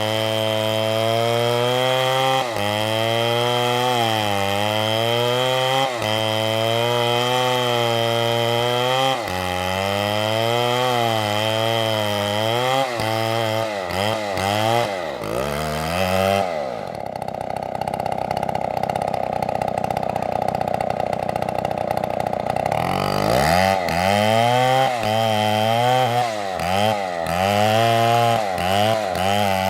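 STIHL two-stroke chainsaw cutting through oak, its engine pitch sagging under load and recovering again and again. About halfway through, the engine note drops away and a steadier, flatter whine takes over for several seconds before the engine revs back up and cuts on.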